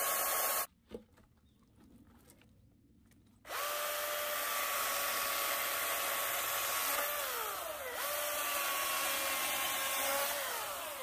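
Cordless battery chainsaw running with a steady electric whine, stopping briefly and starting again about three and a half seconds in. Its pitch sags and recovers once near the middle, then winds down at the end.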